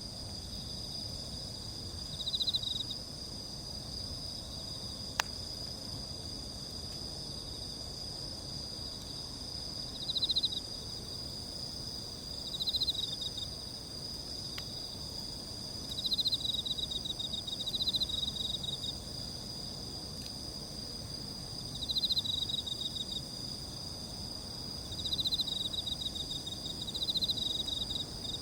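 Steady chorus of crickets and other insects, several high-pitched tones ringing on together, with a louder pulsed chirping trill breaking in about eight times at irregular intervals. A single sharp click sounds about five seconds in.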